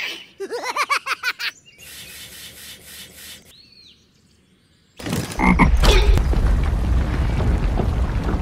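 A quick run of warbling cartoon-style pulses, about eight a second. Then, after a short quiet gap about five seconds in, a loud, steady low rumble of a heavy machine engine sound effect for the toy excavator.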